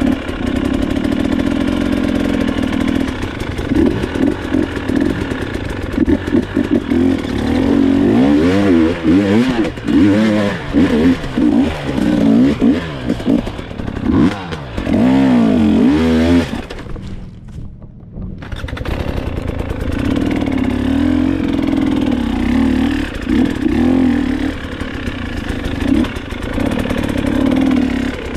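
Dirt bike engine running and revving up and down over and over, with a brief drop in sound about seventeen seconds in before it settles into steadier running.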